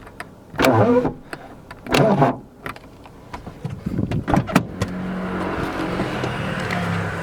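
Nissan Micra 1.4 four-cylinder petrol engine started, catching about four seconds in after two short sounds, then idling steadily.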